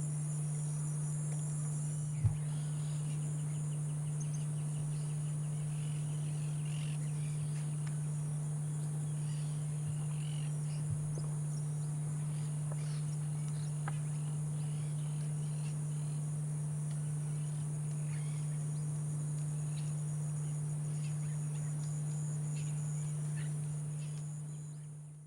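Field ambience: high insect trilling, steady throughout, over a louder low steady hum, with faint scattered bird chirps. A soft knock comes about two seconds in and another about eleven seconds in, and the sound fades out at the end.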